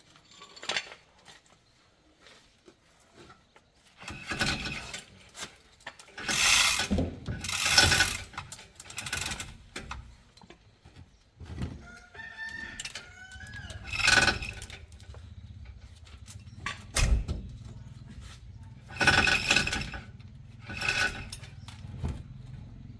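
Irregular clanking and scraping of metal tools and truck parts during heavy-truck clutch work, with a low steady hum setting in about six seconds in.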